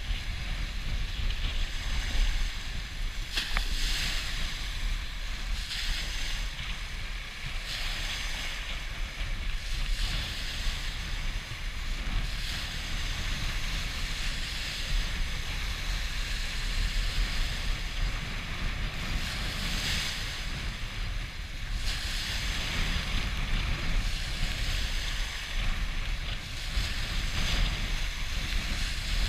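Storm wind buffeting the microphone with a steady low rumble, over river waves splashing and washing against a boat launch, the splashes swelling every few seconds.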